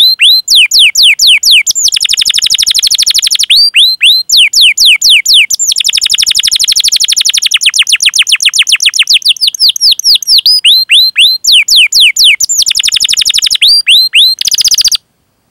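Domestic canary singing: runs of repeated downward-sweeping chirps, about six a second, alternating with long, very fast rolling trills. The song cuts off abruptly just before the end.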